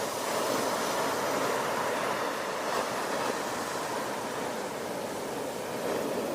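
Ocean surf: waves washing in as a steady rushing wash that rises and eases a little.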